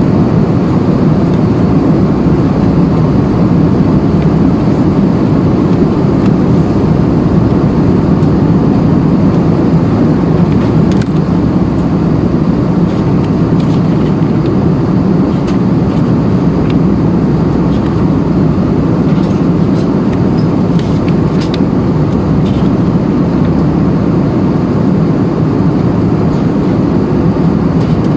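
Steady in-flight cabin noise of an Airbus A320: a continuous low rush of airflow and engine sound heard inside the cabin.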